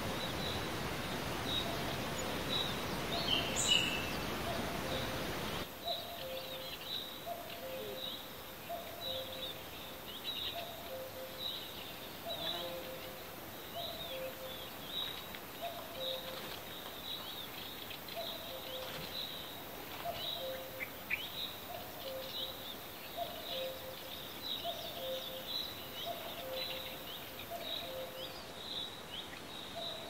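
Bird calls: a short high chirp repeated about twice a second, over a low two-note call repeated about every second and a half. A steady hiss underneath cuts off abruptly about five seconds in.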